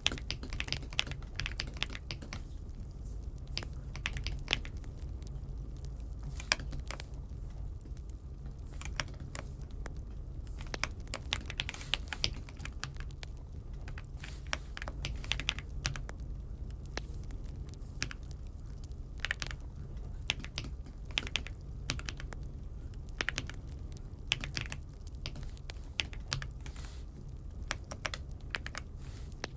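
Aula F75 mechanical keyboard being typed on: irregular runs of keystroke clacks with short pauses, over a steady low hum.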